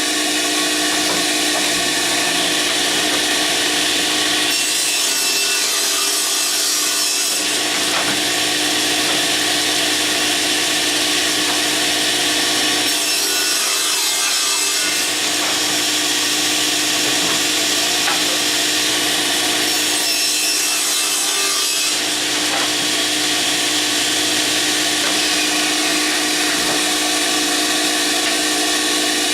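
Table saw running and ripping wood, a steady motor hum under the cutting noise. The sound changes three times as stock is fed through.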